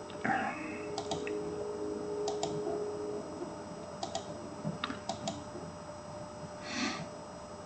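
Scattered clicks of computer keys, several in quick pairs, over a faint steady hum, with a brief soft noise near the end.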